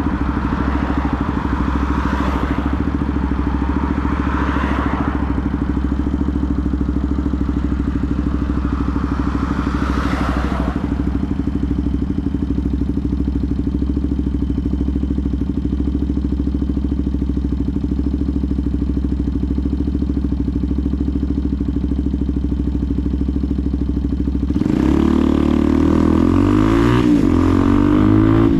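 Benelli TNT 125's single-cylinder four-stroke engine running steadily at idle, with a few brief swells of rushing noise. About 24 seconds in, it revs up and accelerates away, with a short dip in pitch partway before climbing again.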